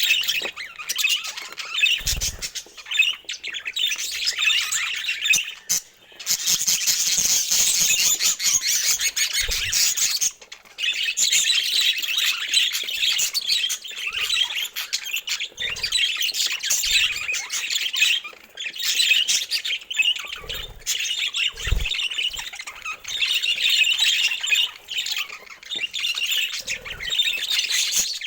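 A flock of budgerigars chattering and warbling continuously, many birds at once in fast, high, squawky twitters, with a few soft low thumps now and then.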